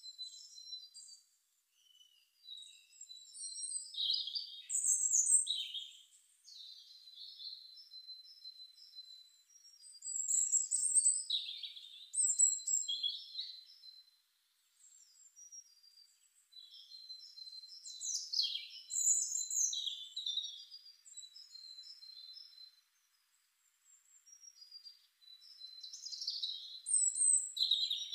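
Songbirds singing: bouts of high chirps and whistles come about every seven to eight seconds, with a thin, steady high tone held between them.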